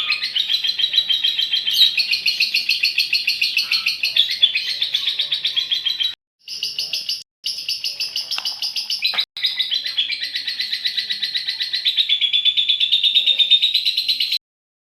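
Female lovebird chattering in a long, fast run of sharp repeated chirps (the 'ngekek' song), with a few brief breaks in the middle and an abrupt stop shortly before the end.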